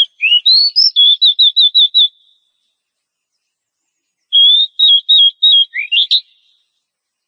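Oriental magpie-robin (kacer) singing two loud whistled phrases. Each phrase is a quick run of repeated notes. The first opens with rising notes, and the second ends with a rising sweep. There is about two seconds of silence between them.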